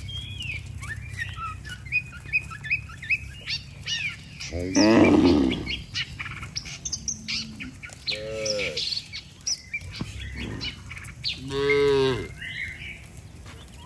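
Cattle mooing three times, the loudest call about five seconds in and the others near eight and twelve seconds, while birds chirp and tweet throughout.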